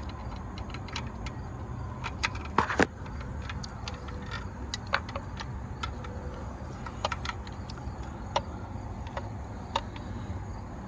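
Irregular metallic clicks and clinks of a wrench being worked onto an alternator bolt in a tight engine bay, loudest in a quick cluster about two and a half seconds in, over a low steady hum.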